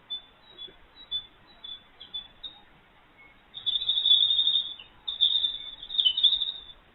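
A small songbird singing: a string of short, high chirps, then two loud, rapid trilling phrases, the first starting about halfway through.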